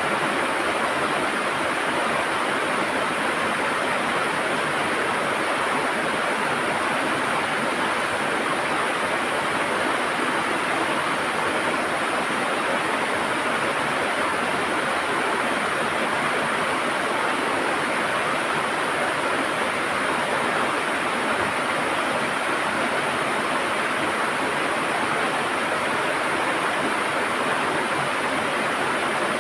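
River water gurgling and rushing over rocks, a steady, even flow.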